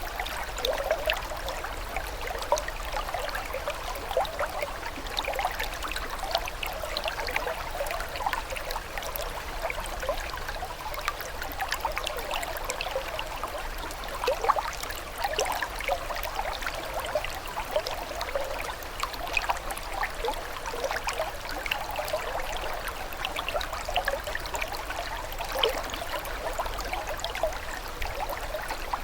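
Water trickling and babbling steadily, a dense patter of small splashes and drips with no change in the flow.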